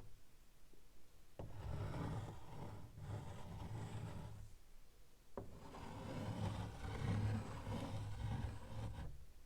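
Chalk scratching and rubbing across a blackboard in two long stretches of writing, each starting with a small click as the chalk meets the board.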